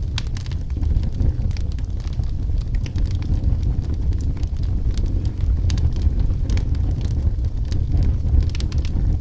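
Firewood burning in a fireplace: a steady low rumble of the flames with frequent sharp crackles and pops from the burning wood.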